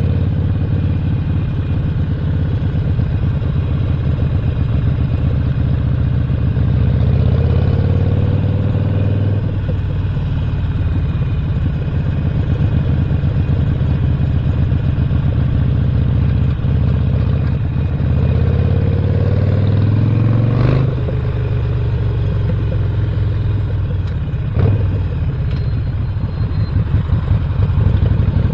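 Stage 1-upgraded 1200cc V-twin of a 2017 Harley-Davidson Sportster Roadster, running under way. Its note rises and falls with the throttle, and a sharp click is heard about two-thirds of the way through.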